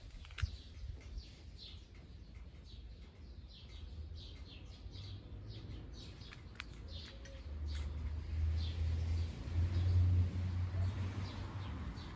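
Garden birds chirping throughout, many short quick notes overlapping. A low rumble rises in the second half and is the loudest sound, with a single sharp click near the start.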